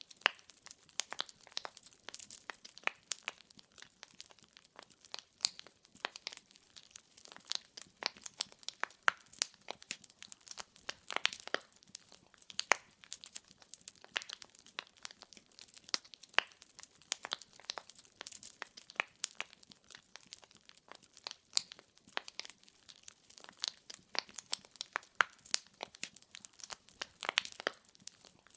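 Firewood crackling and popping as it burns in a fireplace: a steady stream of sharp, irregular snaps, several a second, over a faint hiss of the flames.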